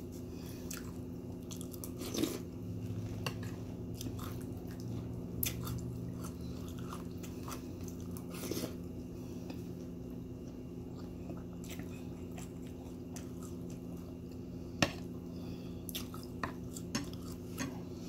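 Close-up chewing of Honey Nut Cheerios in milk, with scattered sharp clicks of a metal spoon against the ceramic bowl.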